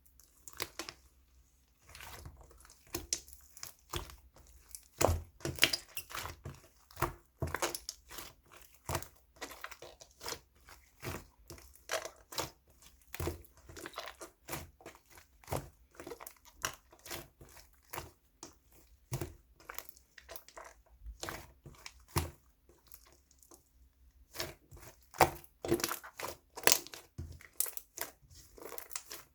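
Irregular close-up clicks, taps and crinkling, a few a second, as of small objects being handled.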